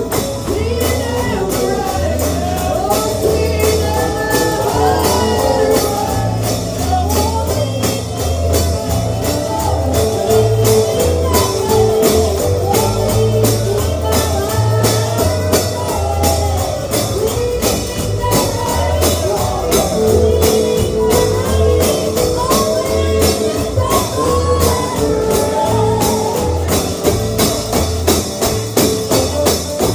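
Gospel band music: a tambourine keeping a fast, steady beat over guitar and a pulsing bass, with a wavering melody line on top.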